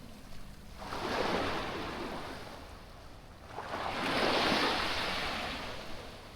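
Small waves breaking and washing up a beach, two surges of surf: the first about a second in, the second slightly louder past the halfway mark.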